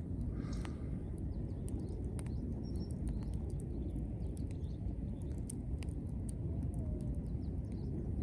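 Wood campfire burning green wood, crackling with frequent sharp pops and clicks over a steady low rumble.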